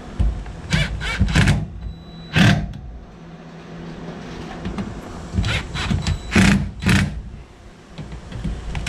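Cordless power driver running in short bursts as it tightens the bolts of a fuel-tank sump. There are several quick bursts, in two groups a few seconds apart.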